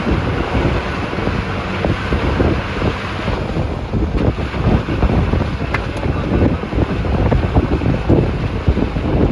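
Wind rushing and buffeting against the microphone, over the running and road noise of a moving bus, with a steady gusty rumble.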